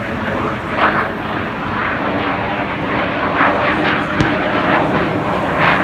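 Fighter jet flying past: loud, steady rushing jet-engine noise that wavers in strength throughout.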